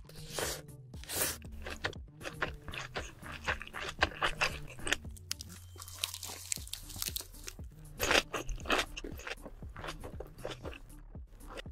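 Close-miked eating: a string of irregular crunchy bites and chewing.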